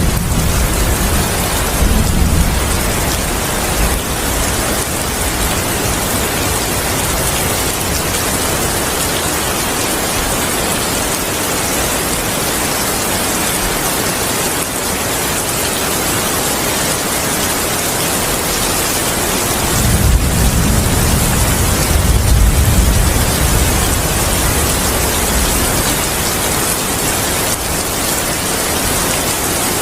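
Heavy rain falling steadily, a dense even hiss. A low rumble of thunder fades out in the first few seconds, and another long rumble of thunder rolls in about twenty seconds in and dies away over several seconds.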